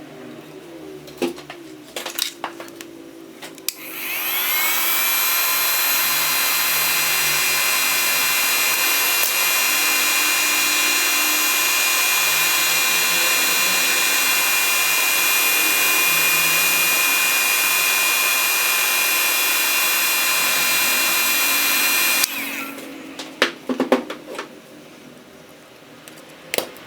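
A small electric power tool's motor spins up about four seconds in with a rising whine, runs steadily for about eighteen seconds, then winds down. Light clicks and taps of handled parts come before and after it.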